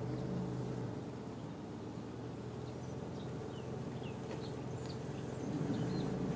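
Car engine and cabin hum at low parking-lot speed, heard from inside the car: a steady low hum that grows a little louder near the end. A few faint, short high chirps sound in the middle.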